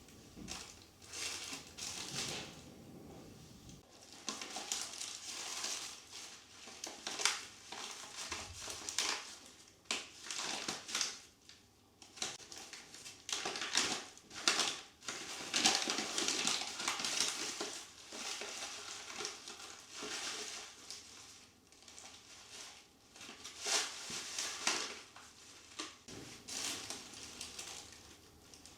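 Irregular rustling and crinkling of something being handled, coming in uneven short spells with brief pauses.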